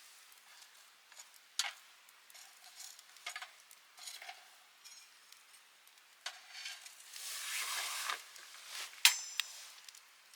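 Campfire crackling and snapping in irregular sharp pops, with a short metallic clink about nine seconds in.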